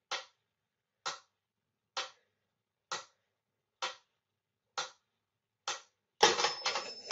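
Pyramid-shaped mechanical metronome ticking steadily, about one tick a second, seven ticks in a row. About six seconds in, a louder, longer clatter breaks the ticking.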